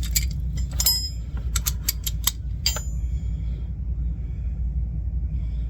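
Hand tools clinking metal on metal: a socket wrench and a long extension being handled and fitted, about eight sharp clinks, some ringing briefly, in the first three seconds. A steady low rumble runs underneath.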